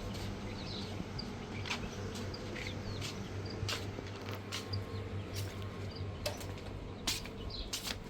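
Irregular sharp clicks over a low steady hum, with faint bird chirps.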